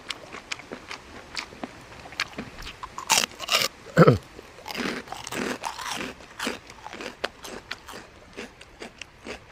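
Close-up crunchy chewing of jellyfish and beef tripe in a spicy pounded salad, a steady run of small crisp crunches. About three seconds in, a louder burst of mouth noise comes as a fresh mouthful goes in.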